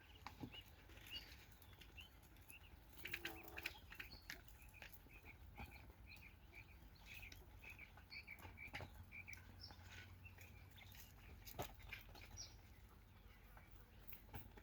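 Coturnix quail giving faint, short chirps over and over, with scattered clicks and taps.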